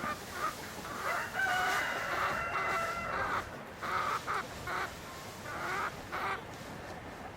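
A rooster crowing once, a held call of about two seconds starting about a second in, followed by a handful of short clucks from the flock.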